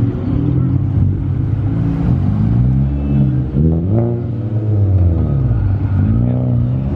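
Car engines revving, their pitch rising and falling several times over a steady engine drone.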